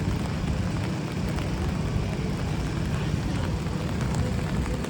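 Rainy city street ambience: a steady low traffic rumble with an even hiss of rain and wet road noise.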